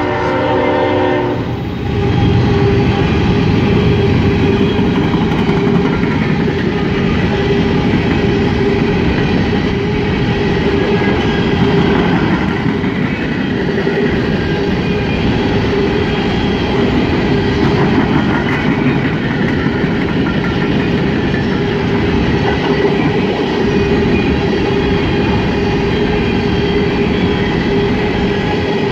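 Horn of a passing CSX freight locomotive, ending about a second and a half in, then a long string of empty coal hopper cars rolling past, a steady loud rumble and clatter of steel wheels on the rails.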